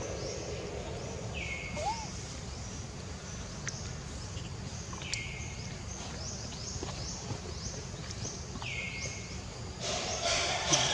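Forest ambience with a steady low background noise and a bird calling three times, about every three and a half seconds. Each call drops in pitch and then holds briefly, with fainter high chirps in between. The background grows louder near the end.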